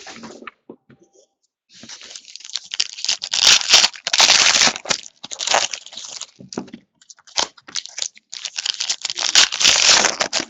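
Basketball trading card packaging being torn open and crinkled: a brief rustle, a short pause, then a long run of tearing and crackling with two louder stretches in the middle and near the end.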